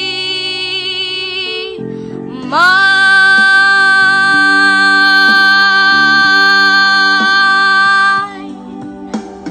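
A female voice singing a ballad's closing lines over a backing track: one long note with vibrato ends about two seconds in, then a louder note scoops up and is held for about six seconds before it stops, leaving the backing music playing on its own.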